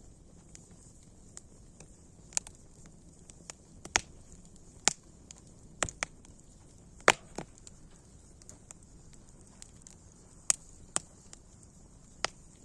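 Wood fire crackling: sharp pops and snaps at irregular intervals over a soft steady hiss.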